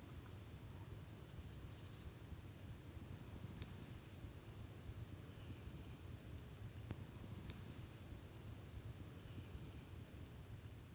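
Insects chirping: a steady, fast-pulsing high trill that drops out briefly about four seconds in, over a low background rumble.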